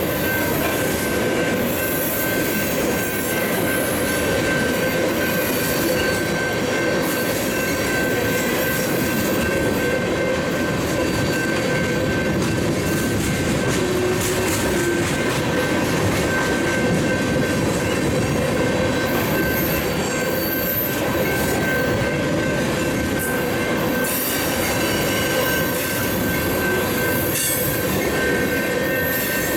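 Freight train of tank cars rolling past close by: a steady rumble of steel wheels on rail, with a thin, steady high-pitched wheel squeal riding over it and occasional clacks over the rail joints.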